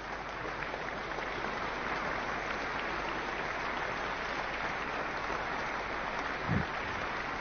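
Audience applauding steadily, swelling over the first couple of seconds, with a single low thump about six and a half seconds in.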